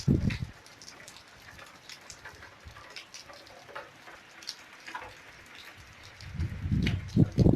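Rain falling and dripping, individual drops pattering on surfaces. Bursts of low rumbling at the very start and again from about six seconds in, louder than the rain.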